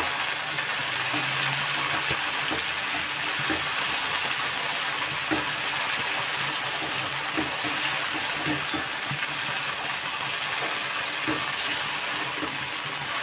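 Cut okra sizzling in oil in a nonstick wok while it is stirred and tossed with a spatula: a steady frying hiss with scattered soft clicks and scrapes of the spatula.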